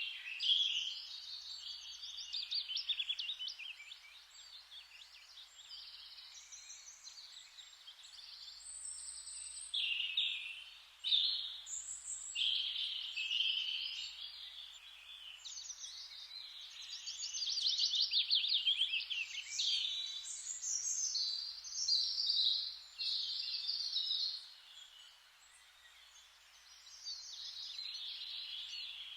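Songbirds singing over a faint steady forest hiss: overlapping chirps and whistled phrases with fast trills now and then. The song thins out briefly a few seconds before the end.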